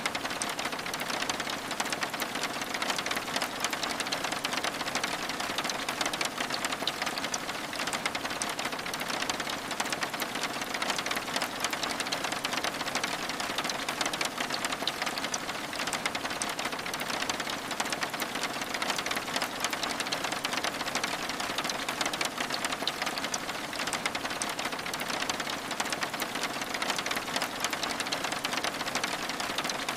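Steady rain pattering on window glass: an even hiss thick with fine, rapid drop ticks that never lets up.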